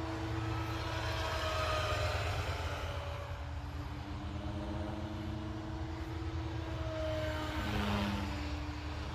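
Three-blade SAB Goblin 570 electric RC helicopter in flight: a steady hum from its rotor and motor, its pitch wavering and briefly dipping about eight seconds in.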